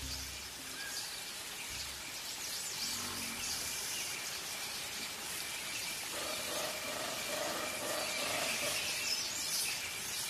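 Birds chirping and calling over a steady high insect trill.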